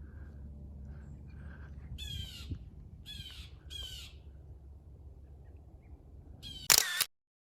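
Blue jays calling from the treetops: three harsh, evenly spaced jay calls about a second apart, then one much louder call near the end, after which the sound cuts off suddenly.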